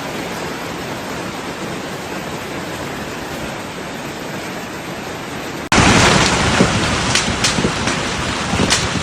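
Hailstorm: a steady dense hiss of pelting hail and rain, then a little over halfway through an abrupt switch to a louder downpour with scattered sharp hailstone hits.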